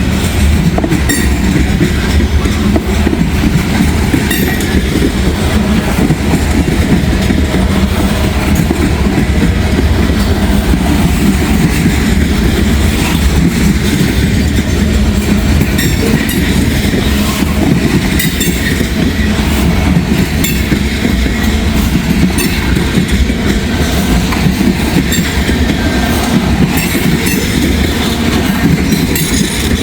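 Freight train cars rolling past at close range: a steady loud rumble of the wheels on the rails, with scattered clicks as the wheels cross rail joints.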